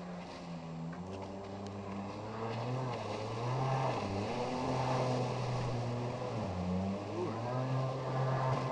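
Four-stroke engine of a small jet-drive tender running at speed, its pitch shifting up and down, growing louder a few seconds in.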